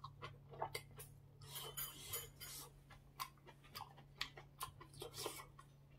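A person chewing a mouthful of malatang (noodles, vegetables, tofu), with soft, irregular wet clicks and smacks of the mouth.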